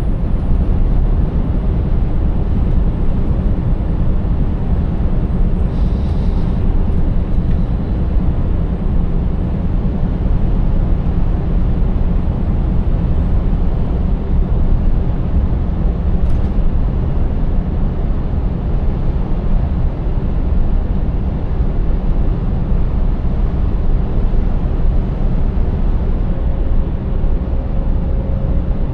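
Scania 590S truck's V8 diesel engine running at a steady cruise, with tyre and road noise.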